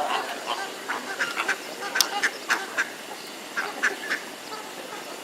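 Ducks quacking in short, repeated calls, coming in two bunches with a pause between them.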